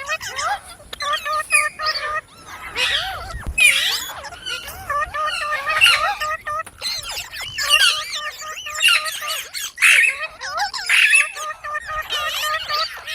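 Pet parrot chattering, a rapid run of squawks and speech-like babble that slides up and down in pitch.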